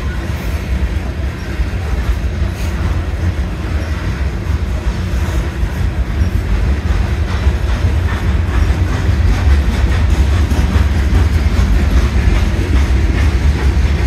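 Loaded coal hopper cars of a freight train rolling past, a steady heavy rumble with the steel wheels clacking on the rails. It grows a little louder about halfway through.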